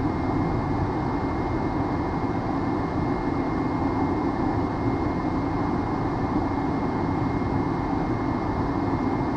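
Steady cockpit noise of a Hawker 800XP business jet in flight: an even airflow and engine rush with a faint steady high whine above it.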